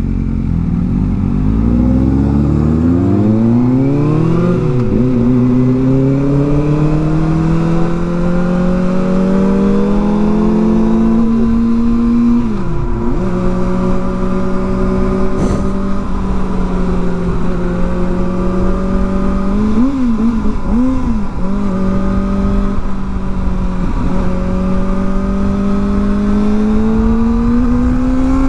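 Kawasaki ZX-4R's 400 cc inline-four engine through an aftermarket exhaust, accelerating hard at first, then running under way. The engine note dips sharply and picks up again a few times, and it climbs once more near the end, over a steady rush of wind noise.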